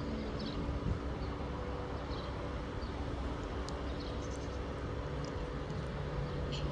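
Class 390 Pendolino electric train pulling away, a steady hum with low held drones, the lowest growing stronger about five seconds in.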